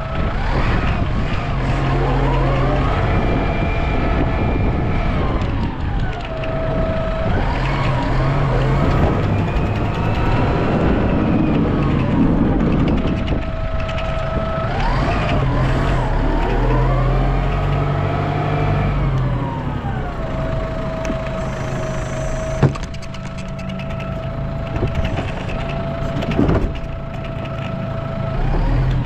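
Vehicle engine revving up and down in repeated swells several seconds apart, with a steady whine running between the swells and a single sharp knock about two-thirds of the way through.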